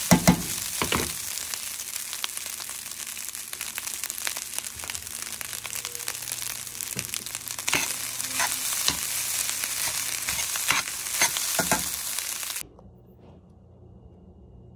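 Fried rice with egg sizzling in a stainless steel pan, with frequent sharp clicks and scrapes of a metal spatula against the pan as it is stirred. The sizzle cuts off suddenly near the end, leaving a quiet room.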